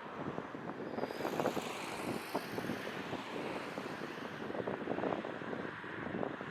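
Wind buffeting the microphone over the steady noise of a jet airliner, an Airbus A321, heard from the ground. The jet's hiss grows a little louder about a second in.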